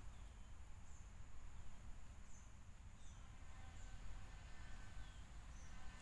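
Forest ambience: a bird gives about half a dozen short, falling chirps over a steady, high insect drone, with a low rumble underneath.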